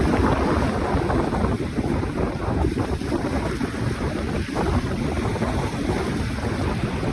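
Sea waves washing in, with steady wind buffeting the microphone.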